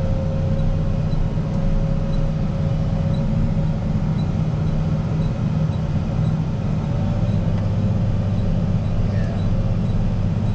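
Diesel engine of a rubber-tyre wheel loader running steadily under load while it pushes snow, heard from the cab; the engine note drops lower about seven seconds in.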